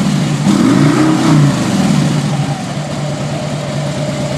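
2014 Harley-Davidson Street Glide's Twin Cam 103 V-twin on its stock exhaust, revved: the pitch rises to a peak a little over a second in and falls back, then the engine settles into a steady idle for the second half.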